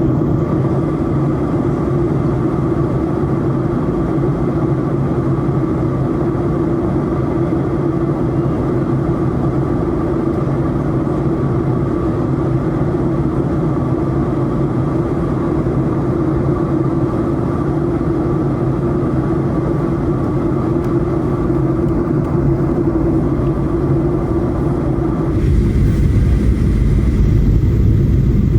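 Boeing 737-800 cabin noise: a steady drone of engines and airflow with a constant hum. About 25 seconds in it changes suddenly to a deeper, louder rumble.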